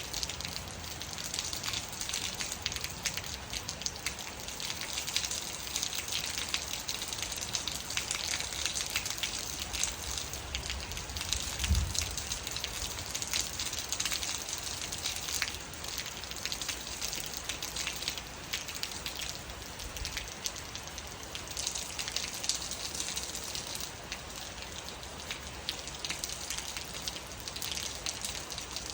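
Steady rain falling, a dense patter of individual drops striking surfaces over a constant hiss. About twelve seconds in there is one dull low thump.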